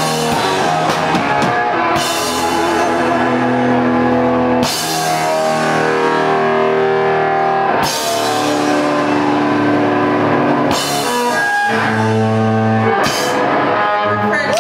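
Live rock band playing: electric guitar chords over a drum kit, with crash-cymbal hits every few seconds.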